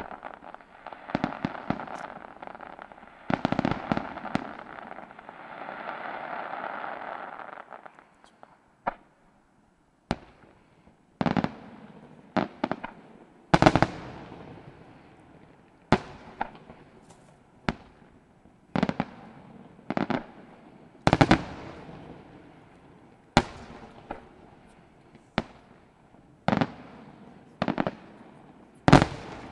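Aerial fireworks display: for the first several seconds a dense run of crackling shell bursts, then from about eight seconds in single loud shell bangs roughly every second and a half, each one trailing off.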